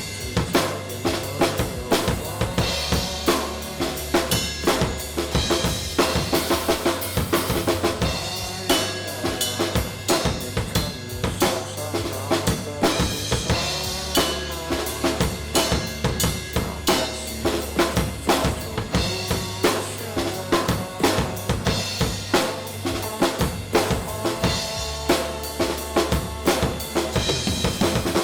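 Drum kit played in a dense rock groove, with bass drum, snare and rimshots hitting several times a second, over a rock backing track with a steady low bass line.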